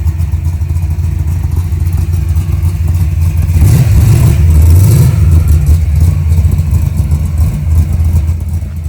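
Hemi V8 of a Plymouth Hemi Cuda running with a loud, deep rumble. It swells louder for a couple of seconds around the middle, then settles back.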